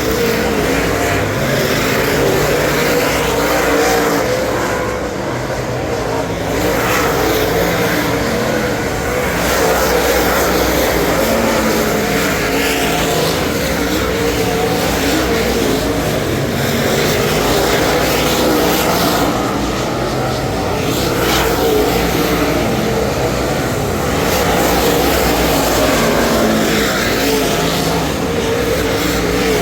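A dirt Super Late Model's Ford 422 cubic inch V8 racing engine running at race pace, heard from the in-car camera. The loud engine note dips and climbs again every few seconds as the driver lifts and gets back on the throttle through the corners.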